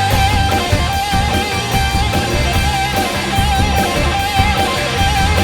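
Rock music led by electric guitar: a lead guitar plays a repeated phrase with vibrato over bass and drums.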